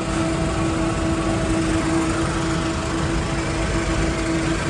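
Factory machinery running steadily, a constant mechanical drone with a steady hum tone through it.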